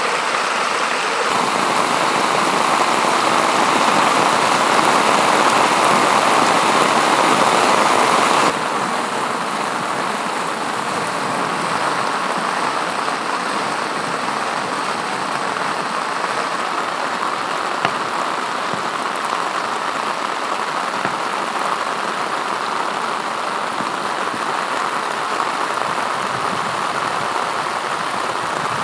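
Heavy rain pouring down in a steady, dense hiss. It drops a little in level about eight seconds in.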